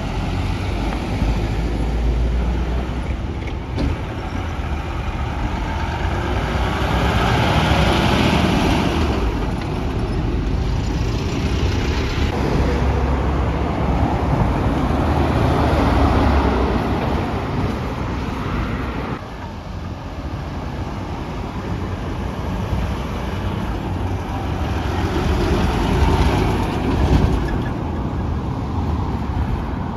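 Heavy trucks and road traffic going past, with low engine rumble and tyre noise that swells and fades several times as vehicles pass.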